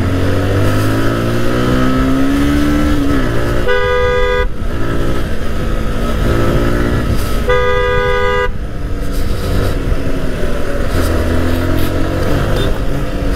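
Yamaha R15's single-cylinder engine pulling away and accelerating in traffic, its pitch climbing and then dropping several times as it goes through the gears. A vehicle horn sounds twice, each a steady blast of about a second, about four seconds apart.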